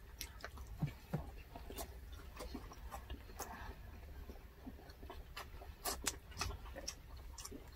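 Close-miked eating: chewing of grilled pork belly and roast chicken with wet mouth clicks and lip smacks, scattered irregularly and fairly quiet.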